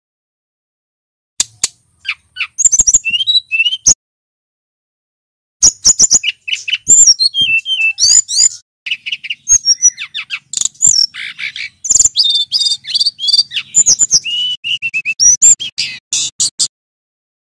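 Male brown-chested jungle flycatcher singing: rapid strings of varied high chirps, trills and whistled slurs, in a short bout and then a long one of about eleven seconds, separated by sudden dead silence.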